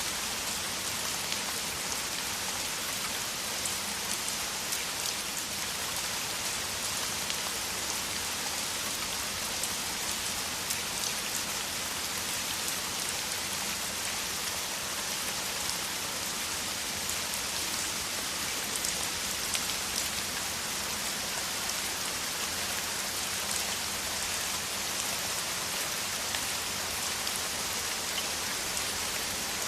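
Heavy rain falling steadily: a dense, even hiss with many sharp individual drop hits scattered through it.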